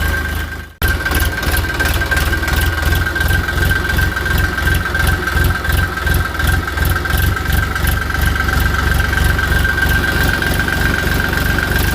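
A toy tractor's engine sound, idling with an even chugging beat and a steady high whine over it. It breaks off for a moment just under a second in, then carries on unchanged.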